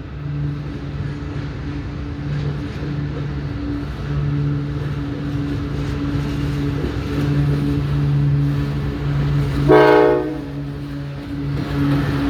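TE33A diesel-electric locomotive's 12-cylinder GEVO engine running steadily with a low drone as it hauls a freight train. A short horn blast sounds once, about ten seconds in.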